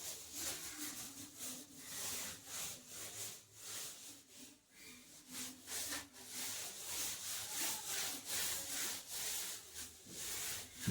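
Repeated rubbing strokes against a wall, about one to two a second, from hand work on a wall surface during interior painting.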